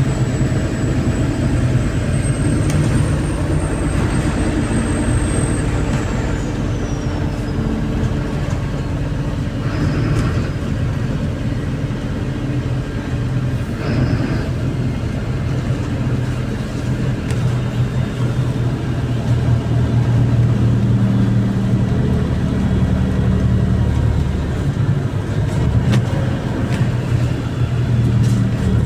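MAZ-203 city bus on the move, heard from on board: the engine running steadily under road noise, with a few knocks and rattles. A faint high whine near the start falls in pitch a few seconds in.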